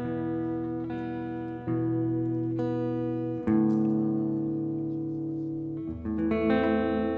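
Instrumental guitar accompaniment, chords held and changed about every two seconds, with no singing.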